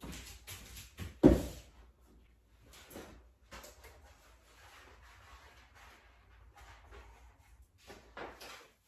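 Things being handled and set down at a workbench: a sharp knock about a second in, then lighter clicks and soft rustling.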